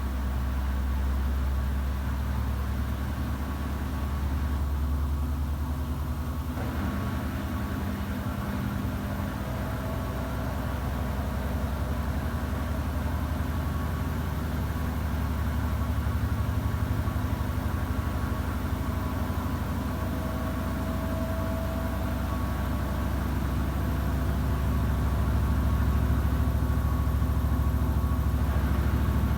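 Samsung WW90J5475FX front-loading washing machine running its rinse and spin programme: a steady low hum from the turning drum and inverter motor, with faint steady tones above it.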